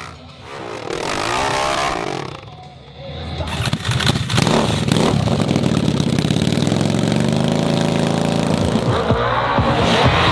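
Racing motorcycle engines at high revs, rising in pitch through the gears; the sound dips briefly, then grows loud and steady from about three and a half seconds in as bikes pass close.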